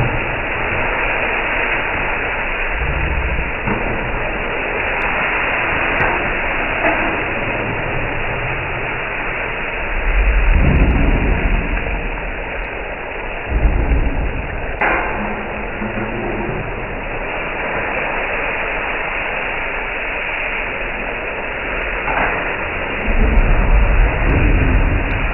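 Chicken frying in a karahi, with a steady loud sizzling hiss. A few short low rumbles and thumps come and go.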